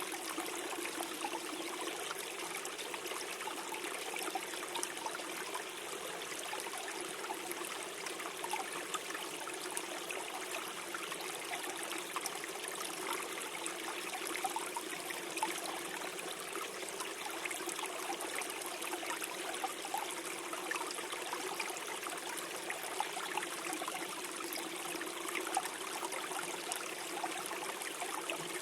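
A small stream flowing and gurgling over stones, a steady rush of water with a constant bubbling texture.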